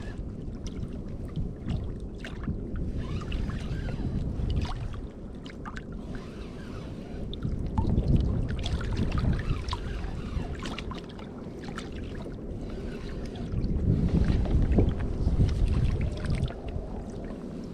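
Sea water lapping and slapping against a kayak's hull, with a low rumble of wind on the microphone that swells twice, and scattered small knocks and clicks from the boat.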